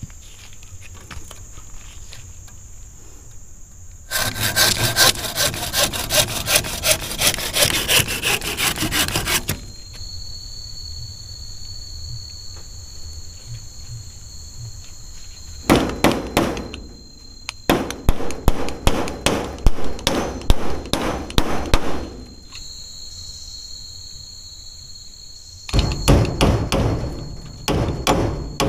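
Wood being sawn by hand in three bouts of quick, rhythmic strokes, with pauses between them.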